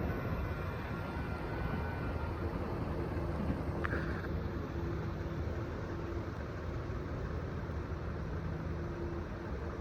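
Steady low rumble of the passing Amtrak passenger train rolling on the rails, with a brief click about four seconds in.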